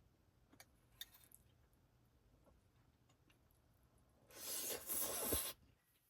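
Small handling sounds: a few light clicks, then a loud scraping rustle lasting about a second, starting a little past four seconds in.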